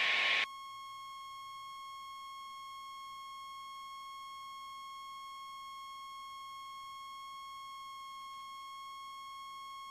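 Faint, steady electronic whine on the airplane's intercom and radio audio feed: one unchanging tone with overtones, and no engine noise. A hiss cuts off about half a second in, as the feed closes after speech.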